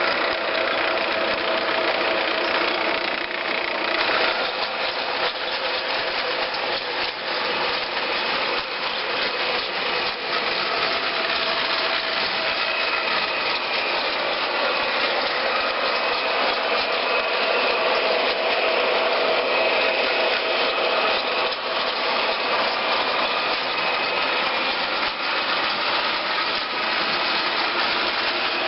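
Model train running steadily: its small electric motor and gears whir, with faint ticking from the wheels on the track.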